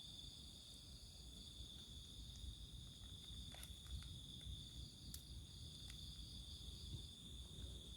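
A steady night chorus of crickets and other insects: a continuous high-pitched trill with fainter, higher layers above it. A few faint clicks come in around the middle.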